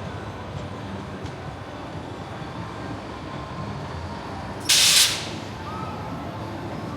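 Steady outdoor rumble with faint distant voices, broken about five seconds in by a loud, sharp hiss of released air or steam lasting about half a second.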